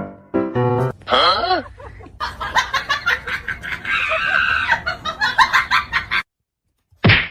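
A voice says 'huh?' about a second and a half in. A fast run of short pitched animal calls follows and stops suddenly about six seconds in, and one short loud call comes near the end.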